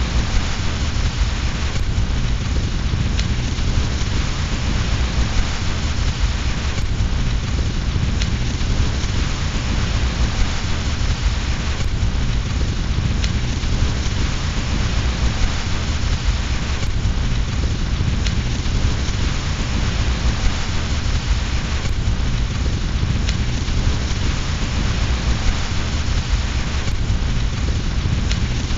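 Steady, dense rain with a deep low rumble underneath, with a faint click about every five seconds.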